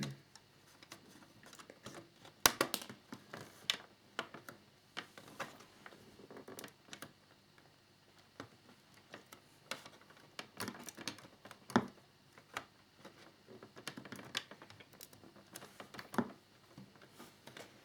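Irregular small clicks and taps of plastic model fairing parts and small screws being handled and fitted, with a sharper click about two and a half seconds in and another near twelve seconds.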